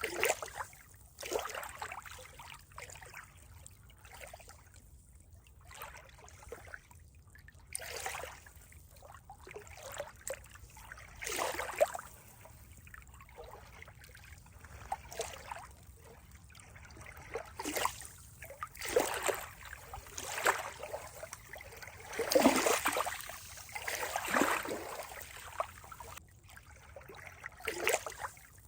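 Water trickling and gurgling in irregular small splashes, some louder than others, with no steady rush between them.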